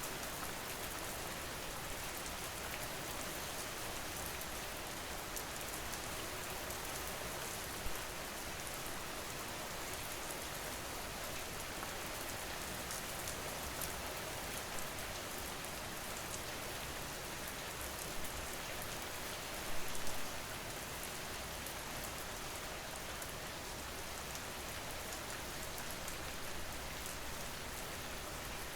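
Steady rain falling on a surface, with a few louder drops or splashes about eight seconds in and again around twenty seconds.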